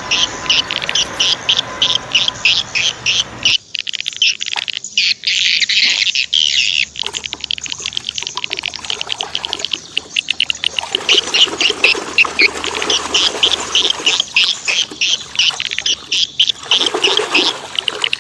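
A bird chirping over and over, high and fast, about three calls a second, with water splashing as toys are washed, heaviest in the second half.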